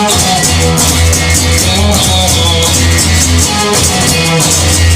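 Rock band playing an instrumental passage between sung lines: electric guitar over a steady bass line and drum kit.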